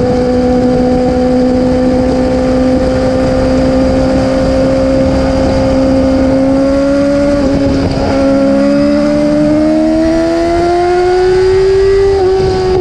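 Yamaha R6 inline-four sport-bike engine running at high revs with a steady high note, its pitch climbing over the last few seconds, with a brief break near the end.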